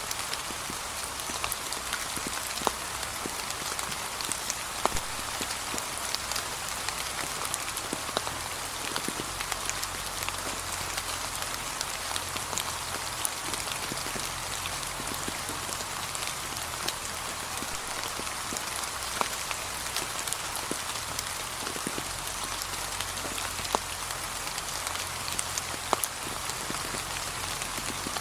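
Gentle, steady rain: an even patter with many individual drops ticking at random.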